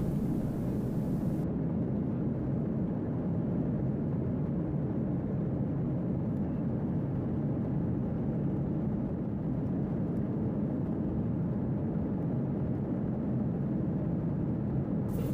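Steady low rumbling drone of a jet airliner cabin in flight, an even noise that stays constant throughout.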